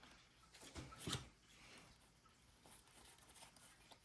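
Faint rustle and sliding of trading cards being flipped through by hand, with a slightly louder brief rustle about a second in.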